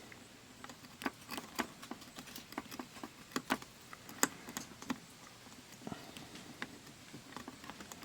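Light, irregular clicks and taps of small hand tools working on a multimeter's circuit board, a dozen or so spread out with short gaps between them.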